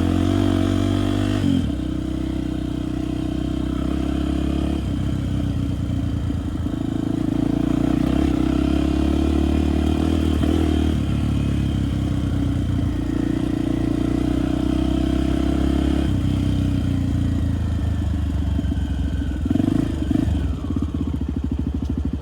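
Dirt bike engine running under way, the revs rising and falling several times as the throttle is opened and closed.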